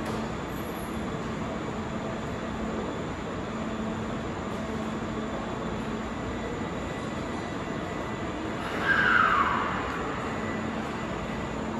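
Kintetsu 80000 series Hinotori limited express train standing at the platform, with a steady hum. About nine seconds in, a brief, louder sound falls in pitch.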